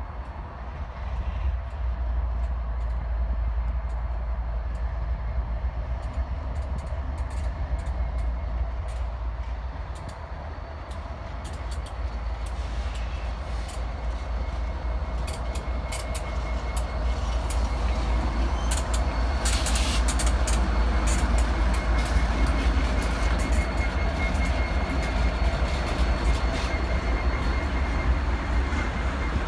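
Train running past on the rails: a steady rumble with sharp clicks of wheels over the track. It dips briefly about a third of the way in, then grows louder, with a thin high steady tone in the second half.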